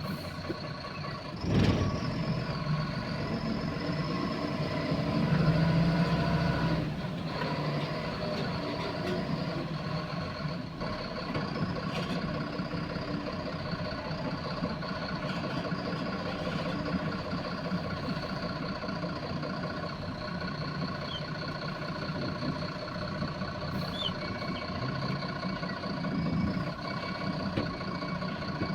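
Truck running steadily, with a brief swell in engine noise about five seconds in.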